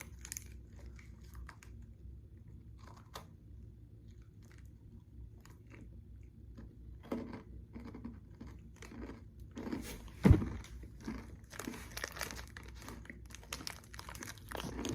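An oats-and-honey granola bar being bitten and chewed: crisp crunches start about seven seconds in and grow denser toward the end, with one much louder thump about ten seconds in. Before that there are only a few faint clicks.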